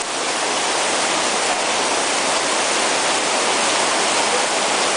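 Heavy rain pouring down steadily, a loud even hiss of water.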